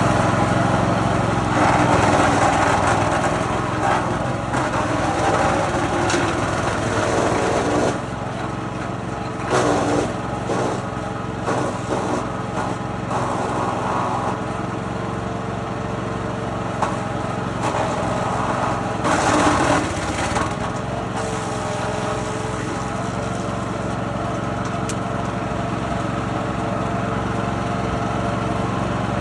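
Wood chipper's small petrol engine running steadily, with several louder noisy bursts as wood is fed through and chipped; the engine note wavers under the load during the biggest burst.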